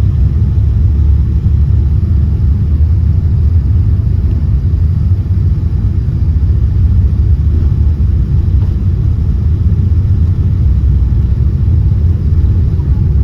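Boeing 787-10 airliner's engines and airframe heard from inside the passenger cabin: a loud, steady low rumble that doesn't change.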